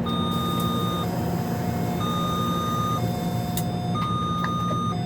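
Electronic two-tone warning chime on a Taipei Metro C341 train, alternating between a higher and a lower pitch about once a second, over the steady low hum of the train.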